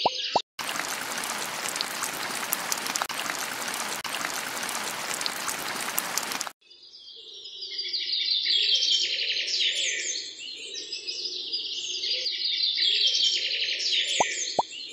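A steady hiss lasting about six seconds, cut off suddenly, followed by birds chirping and singing, which is the loudest part. Quick plops start near the end.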